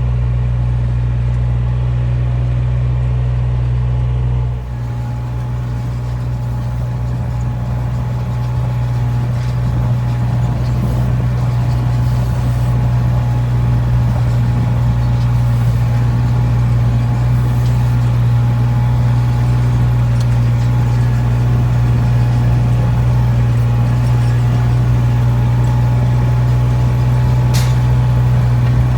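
Heavy truck engine running steadily, a low even hum that grows slowly louder.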